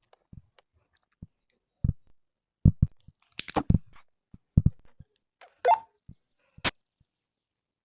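Irregular short knocks and clicks of something being handled and set against a hard surface, about eight in all, a couple with a brief ringing squeak.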